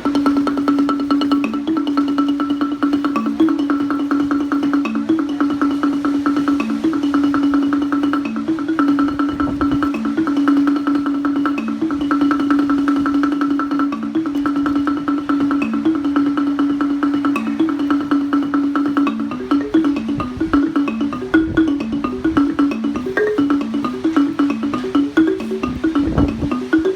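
Marimba-style mallet music: one low note struck over and over in a fast roll for most of the stretch, breaking into a moving melody of changing notes about two-thirds of the way through.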